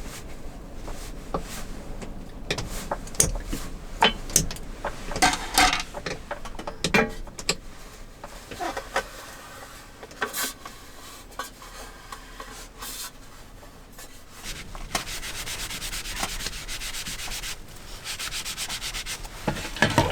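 Rubbing and scraping handling noise with scattered sharp clicks and knocks, and a fast, evenly repeating scrape about three quarters of the way through.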